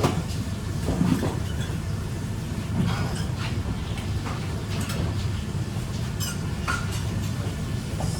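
Kitchen working sounds: a steady low rumble of machinery with scattered clinks and clatters of dishes and utensils.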